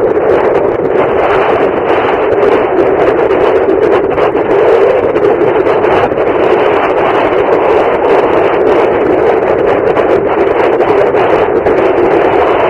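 Strong wind buffeting the microphone: a loud, steady rushing noise that hides everything else.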